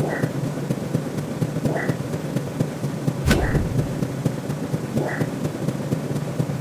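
Looping synthetic background sound: a steady crackling rumble with a short high blip repeating about every second and a half, and one sharp click with a low thud about three seconds in.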